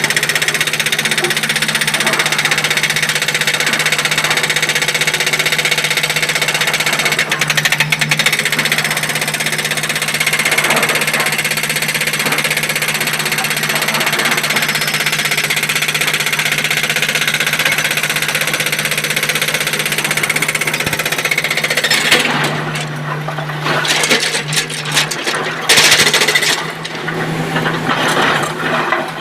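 Large excavator working: the diesel engine runs steadily under load with a dense, rapid mechanical clatter over it. The sound turns uneven, dipping and surging, about three quarters of the way through.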